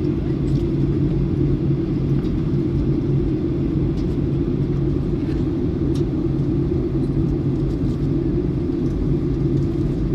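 Steady drone of an airliner cabin in flight: engine and airflow noise with a low, even hum and rumble, a few faint ticks over it.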